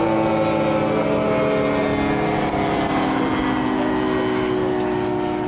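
Model airplane engines running on an RC flying field: several overlapping engine tones that drift slightly up and down in pitch.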